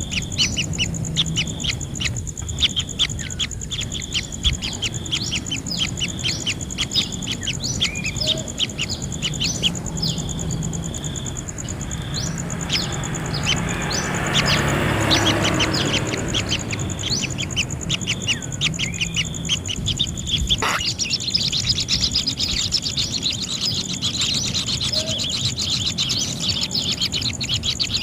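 Kingfisher nestlings chirping in the nest, a rapid run of short, high calls that keeps going, over a steady high-pitched whine. A hissing swell rises and fades around the middle, and there is a single click about two-thirds of the way through.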